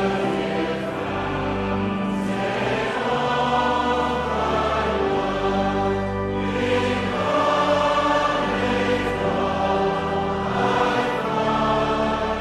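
A choir singing a hymn in held chords that change every second or two.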